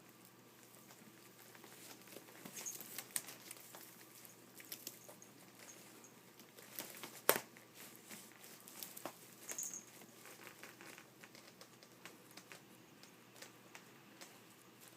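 Cat moving about in a basket: faint scratching, rustling and light clicks of paws and claws against the basket, with one sharper click about halfway through.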